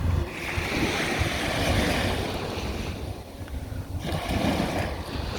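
Sea waves washing onto a beach, rising in a long swell, easing off, then rising again, with wind buffeting the microphone.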